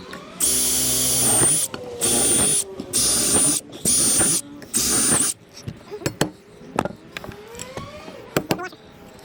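Cordless power drill run in five short bursts with a high motor whine, as a bolt or screw is driven or backed out. After these come a few light clicks and knocks of metal parts.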